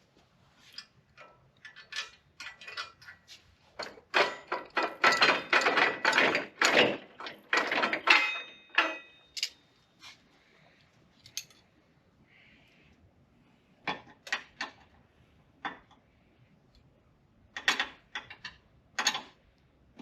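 Tools and metal parts clattering and knocking in a run of irregular clicks and clanks, densest for several seconds in the middle, then a few scattered knocks near the end.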